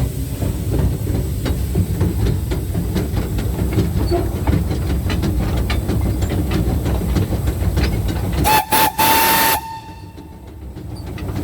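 Small steam locomotive running along the track with a steady rumble and regular clicking. Near the end its steam whistle sounds two quick toots and then one longer blast of about a second.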